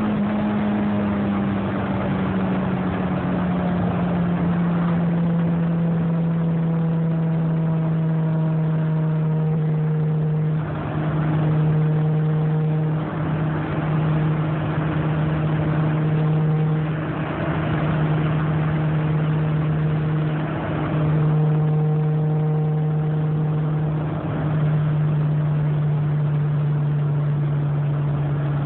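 Honda Prelude's four-cylinder engine running at high, steady revs at highway speed, heard from inside the cabin. Its pitch eases slightly lower in the first few seconds and then holds, over a hiss of road noise that swells several times in the middle.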